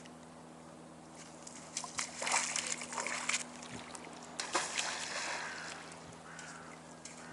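Water splashing and sloshing in a run of irregular splashes from about two seconds in to about five and a half seconds, over a faint steady low hum.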